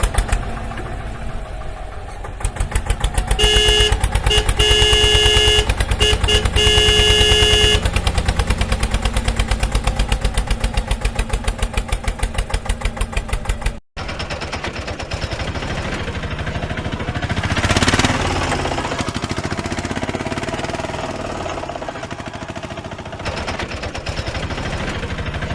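Tractor engine chugging in rapid, even pulses, with a vehicle horn sounding in several blasts a few seconds in. After a sudden cut, a rougher, noisier engine sound runs on and swells briefly near the middle of that stretch.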